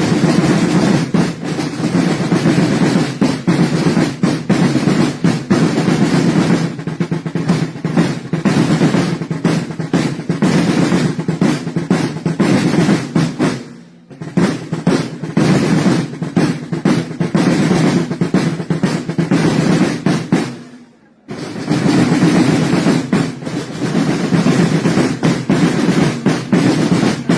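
Snare-type side drums of a drum corps playing fast, continuous rolls. The drumming drops out briefly twice, about halfway through and again about three quarters of the way through.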